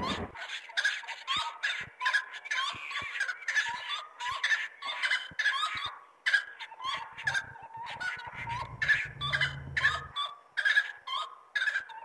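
Several birds calling in a dense, overlapping stream of short chirps and chattering notes.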